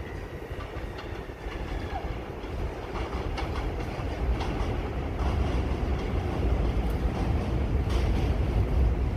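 New York City subway train running on the tracks and growing steadily louder as it comes closer, with a deep rumble and scattered clacks of the wheels over the rail joints.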